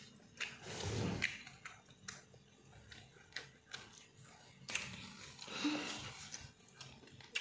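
Close-up eating sounds of a person chewing food eaten by hand: scattered wet mouth clicks and smacks, with breathy snatches of noise and a brief hum about five and a half seconds in.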